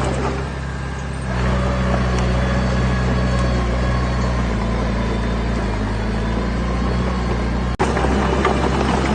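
Diesel engine of a heavy construction machine running steadily with a deep, even note. It picks up a little about a second in, and the sound breaks off for an instant near the end.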